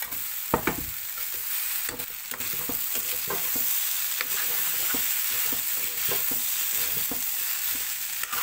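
Fried rice with vegetables sizzling in oil in a kadai while a spatula stirs and turns it, with frequent scrapes and knocks of the spatula against the pan, the loudest about half a second in, over a steady frying hiss.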